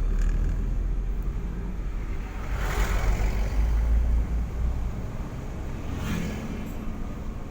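A road vehicle driving: a steady low rumble of engine and road noise, with two brief rushing swells, a larger one about three seconds in and a shorter one about six seconds in.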